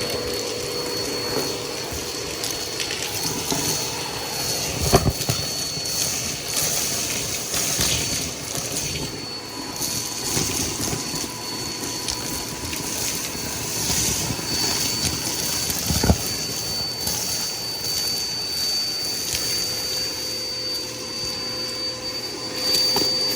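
Bissell PowerForce Helix upright vacuum cleaner running steadily, with a constant high motor whine. Two short knocks come about five seconds in and again about sixteen seconds in.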